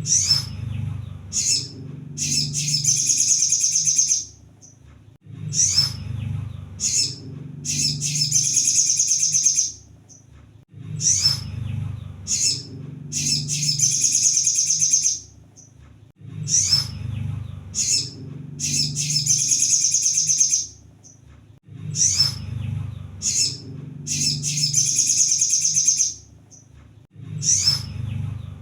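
Kolibri sogon (sunbird) singing: a fast, high-pitched twittering song of about two seconds, repeated about every five seconds, with short sharp chirps in between. A low hum runs under each song.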